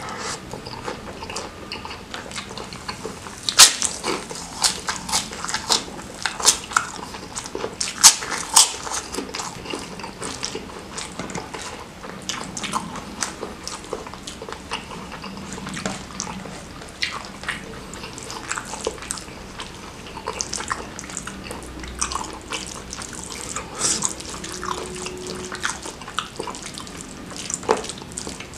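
Close-miked wet chewing and lip smacking while eating spicy stir-fried squid and petai with rice, with fingers squishing through the rice on the plate. Many sharp wet clicks, the loudest about four and eight seconds in.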